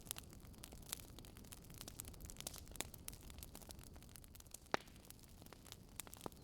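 Fireplace fire crackling faintly: scattered sharp pops over a low steady rumble, the loudest pop a little under five seconds in.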